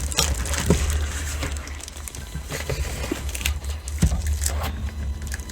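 Plastic packaging crinkling, with scattered light clicks and knocks, as a stick vacuum is lifted out of its box, over a steady low rumble of background traffic.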